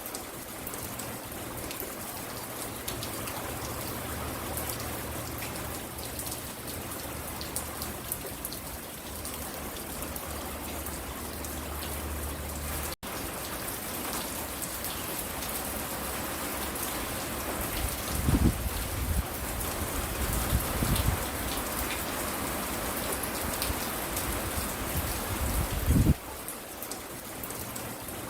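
Steady rain falling, with many individual drops pattering on hard surfaces close by. A low steady hum sits under it for the first half, the sound cuts out for an instant about halfway, and a few low thumps stand out later.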